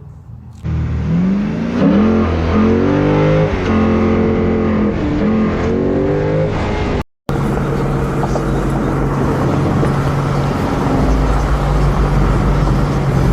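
Straight-piped Ford Mustang exhaust, very loud: the engine is revved up and down several times, then after a sudden cut it runs steadily at a constant pitch.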